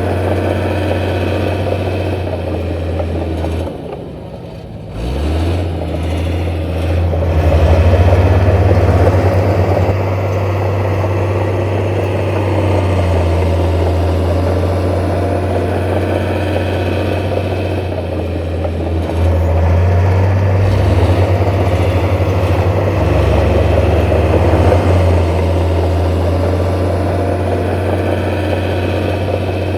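Heavy earthmoving machine's diesel engine running under working load, a steady low drone. Its engine speed drops briefly about four seconds in, then picks up again and shifts a few times as the machine works.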